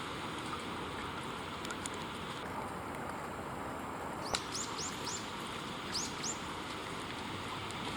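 Common kingfisher calling: a series of short, high, rising whistles in quick succession past the middle, two more a second later, over a steady background hiss. A sharp click comes just before the first call.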